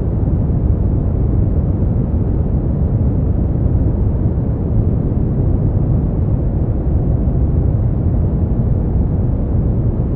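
Steady generated sleep-aid noise, sold as white noise: an even, unbroken rush, deep and dull, with no treble.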